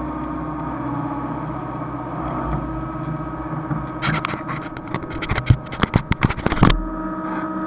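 Hyundai excavator's diesel engine running at a steady speed. For a few seconds past the middle, a rapid series of sharp knocks and clanks sounds over it, and then the steady running resumes.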